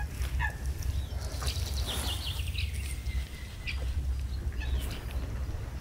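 Small songbirds chirping in short scattered calls, over a steady low rumble.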